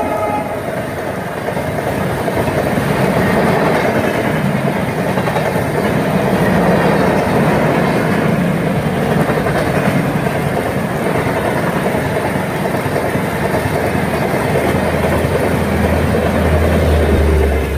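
Indian Railways express train passing close by at speed, its coaches streaming past in a loud, steady rush of wheels clattering over the rails.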